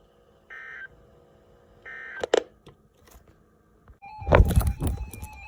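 Emergency Alert System end-of-message data bursts: two short, buzzy digital screeches a little over a second apart, then a sharp click. About four seconds in, a steady tone starts under loud crackling and thumping noise.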